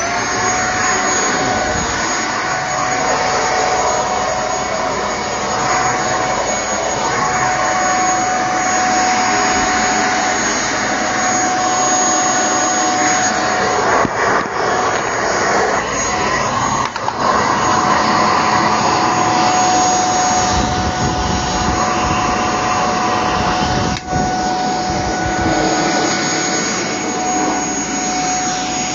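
Shark PowerDetect corded stick vacuum running, its motor rising to speed right at the start and then holding a steady whine over a loud rush of air, with a few brief dips.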